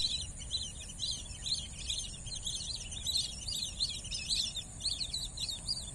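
Wetland birds calling in a steady series of short, repeated chirps, two or three a second, over a steady high insect hiss.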